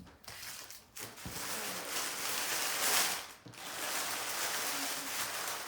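Homemade glue slime being kneaded and squished by hand, a steady sticky noise with a brief pause a little past halfway.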